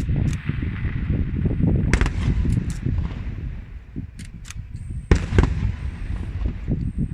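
Aerial firework shells bursting overhead: a continuous low rumble of explosions with sharp cracks scattered through, the loudest pair a little after five seconds in.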